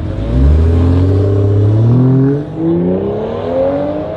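Car engine accelerating hard, its pitch climbing, then briefly dropping at an upshift a little over two seconds in before climbing again.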